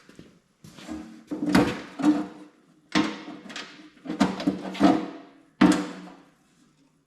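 A run of about six short metallic scrapes and rattles, each a half-second to a second long with a ringing note in it, from sheet-metal parts of a lawn tractor being worked loose and handled.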